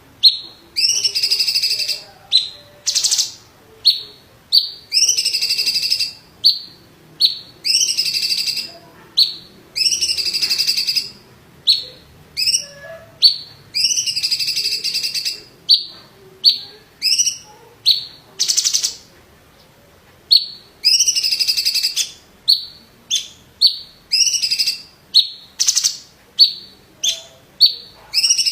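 Cucak cungkok leafbird singing: short sharp chips alternating with longer buzzy phrases of about a second each, repeated over and over with hardly a pause.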